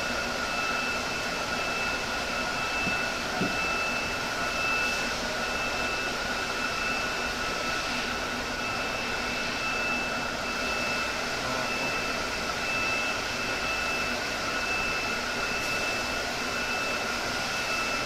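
Steady whirring of a small electric fan motor with a constant high whine, running without change; a faint tap about three and a half seconds in.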